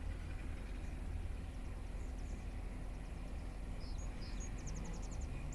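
Steady low rumble of a distant truck engine, with small birds chirping over it and a short rapid trill near the end.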